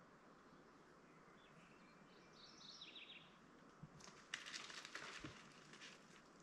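Wild birds calling in the woods: a short, high, stepped call about two seconds in, then a louder rapid chattering run of notes starting just after four seconds and lasting nearly two seconds. Two soft low thuds come in under the calls.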